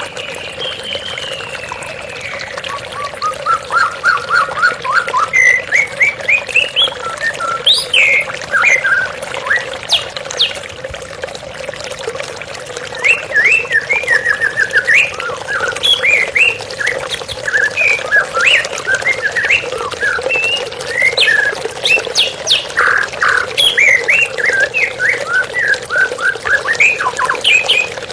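White-rumped shama singing quick, varied phrases of short whistled notes over a steady bed of running water.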